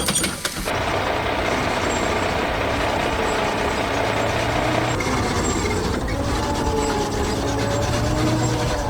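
A heavy construction vehicle's engine running steadily, with a faint whine that wavers up and down in pitch in the second half. A brief noisy crash opens it.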